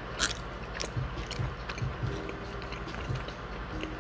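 Close-miked chewing of food, with soft wet mouth sounds and irregular low thuds, and one sharp click about a quarter second in.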